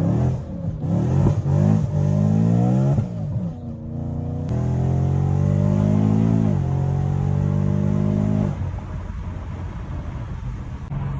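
A vehicle engine revving: several quick rises in pitch over the first three seconds, then held at a steady speed, dropping about six and a half seconds in and cutting back to a low rumble about two seconds later.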